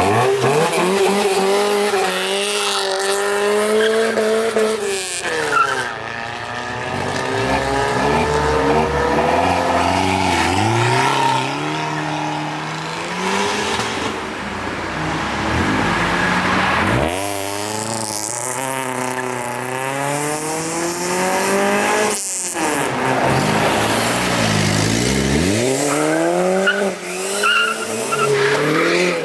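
Car engines revving hard as several cars pull away one after another. Each climbs in pitch in steps through the gears, then drops away before the next one starts.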